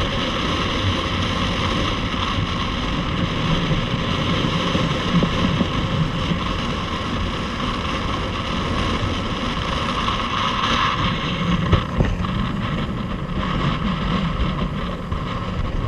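Boat motor running steadily on the water, with wind on the microphone.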